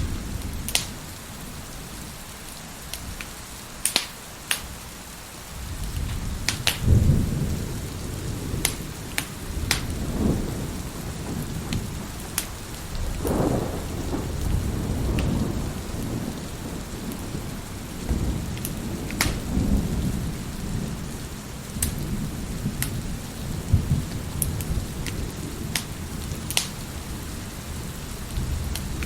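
Wood fire crackling with scattered sharp pops over steady heavy rain, while thunder rolls in low and long about six seconds in and keeps rumbling on and off.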